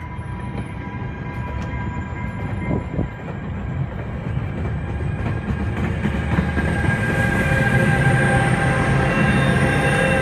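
Bilevel commuter coaches rolling past on the rails with a steady rumble. A Bombardier ALP-45DP dual-power locomotive grows louder as it comes alongside over the last few seconds, adding steady whining tones.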